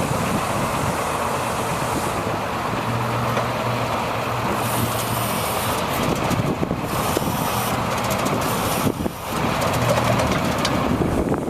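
Engine of a 2002 International mechanics truck running steadily, with a low hum that swells and eases a couple of times.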